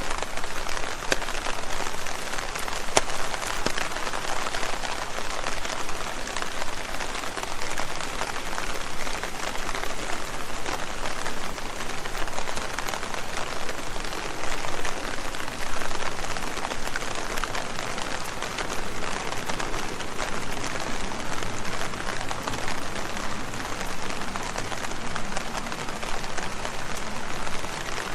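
Steady rain pattering on leaves, a dense hiss of many small drop strikes without let-up.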